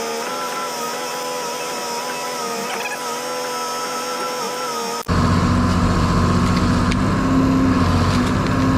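Steady engine hum with high steady tones. About five seconds in it cuts abruptly to a louder, deeper running engine.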